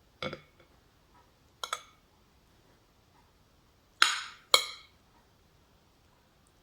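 Eating utensils clinking against dishes four times: two lighter knocks, then two louder ones near the end, each with a short ring.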